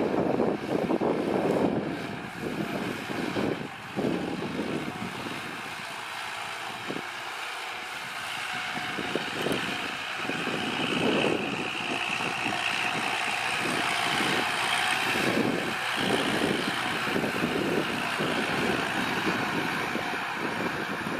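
Kubota L4708SP tractor's diesel engine running steadily under load while it works the soil with a rotary tiller, the sound swelling and easing in uneven surges.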